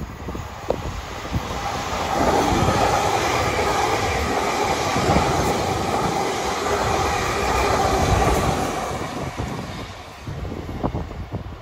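A South Western Railway electric multiple-unit train passing close alongside the platform: its running rumble and wheel noise build over the first two seconds, hold loud, then fade away about nine to ten seconds in.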